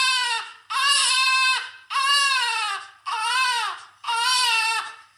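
High-pitched crying sound effect: repeated wailing sobs, about one a second, each falling in pitch as it trails off.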